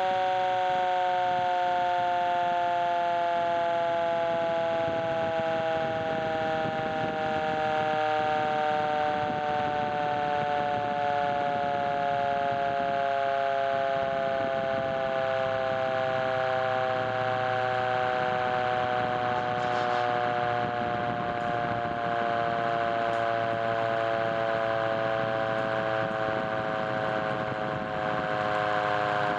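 Fire truck siren sounding one long, unbroken wail, its pitch sinking slowly.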